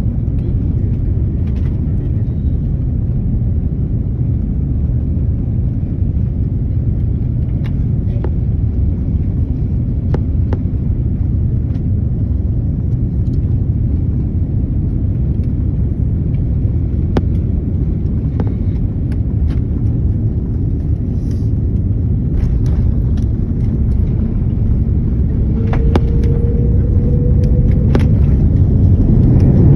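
Steady low rumble of an airliner's engines and airflow heard inside the passenger cabin during the landing approach. It grows louder over the last few seconds, and a short steady tone sounds shortly before the end.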